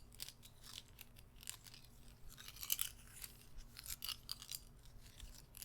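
Guitar picks being handled close to the microphone: soft, irregular clicking and light clatter as the picks tap and rub against each other.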